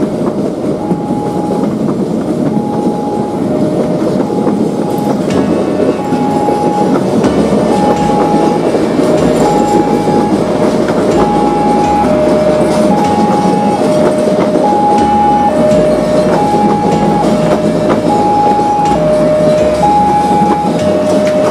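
KRL electric commuter trains running past on the track, wheels clattering over the rail joints, the clatter growing denser about a quarter of the way in. Over it an electronic warning signal repeats a high and a low tone in turn, steadily, as a level-crossing alarm does.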